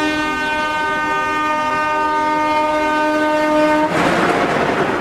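Train horn sounding one long steady note for about four seconds. It stops abruptly and gives way to a loud rushing hiss near the end.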